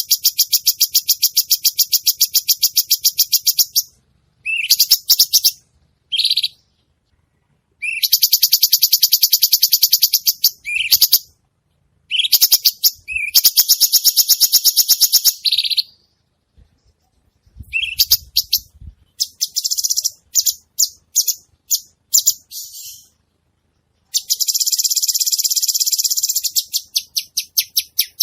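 A cucak cungkok songbird singing steadily in long, very fast high-pitched trills of two to four seconds each, separated by short pauses. In the middle stretch the trills break into a run of short separate notes.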